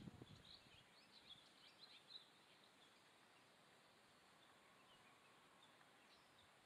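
Near silence with faint, short, high bird chirps scattered through the first couple of seconds and once more near the end.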